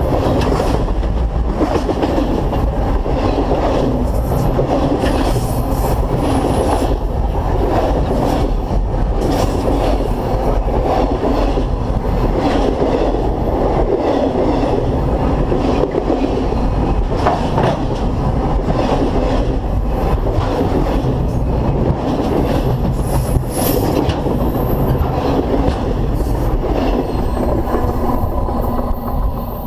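Railroad cars rolling directly over a camera between the rails: a loud, steady rumble and clatter of steel wheels on the rails, with brief high-pitched wheel squeals. The noise drops off near the end as the last car passes.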